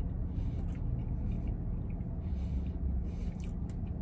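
A man chewing a mouthful of soft doughnut-bun burger with his mouth closed, small wet mouth clicks now and then, over a steady low hum in the vehicle cabin.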